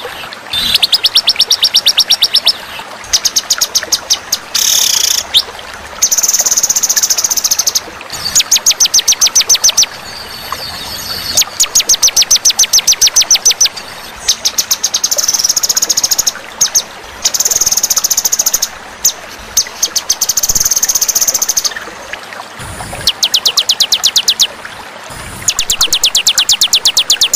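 Songbird song from a bird-training (masteran) recording: fast, high trills of evenly spaced notes, repeated in bursts of one to two seconds with short pauses between them.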